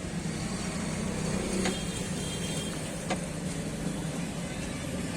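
A motor vehicle engine running steadily under a haze of road and street noise, with a couple of short clicks.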